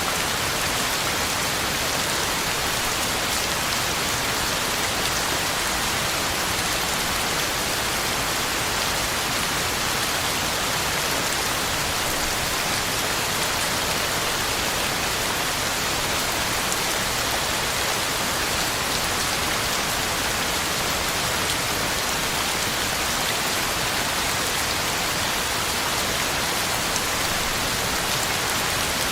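Heavy rain falling steadily, an even hiss of drops on the ground and leaves.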